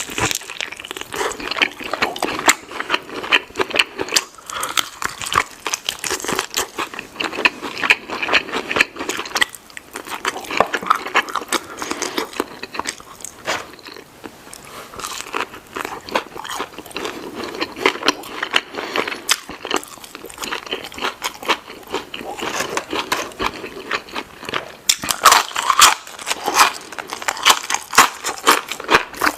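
Close-up eating sounds of a burger and fries: steady biting, crunching and chewing with many sharp crackles, busiest near the end.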